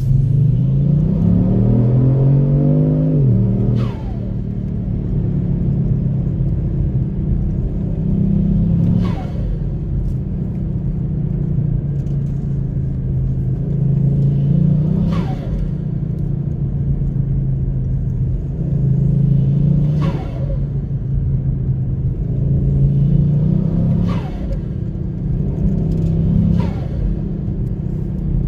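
Kia Stinger GT's twin-turbo 3.3-litre V6 pulling with the pitch climbing over the first few seconds, then running on in repeated pulls. Each time the throttle lifts, about six times, the turbos flutter with a short, falling whoosh. This flutter is compressor surge from the JB4 tune in Sport mode.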